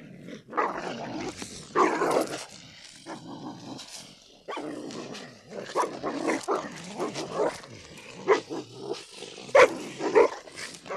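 Domestic dog barking repeatedly, a run of separate barks a half second to a second apart.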